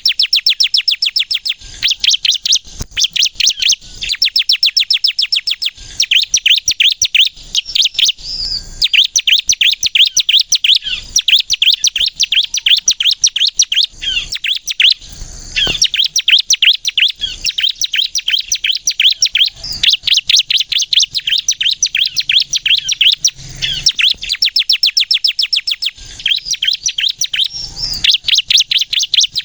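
Bar-winged prinia (ciblek kristal) singing hard: rapid runs of sharp, high chipping notes, many per second, in loud bursts of a few seconds with brief breaks between them.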